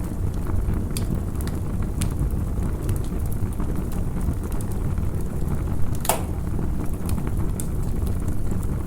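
Campfire crackling: scattered small pops over a steady low rumble, with one sharper pop about six seconds in.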